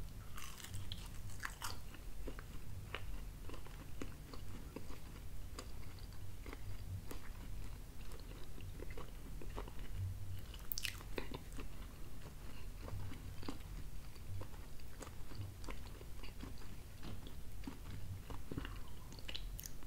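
A man biting into and chewing a slice of thin-crust pizza, close to the microphone, with many small clicks and soft thumps throughout.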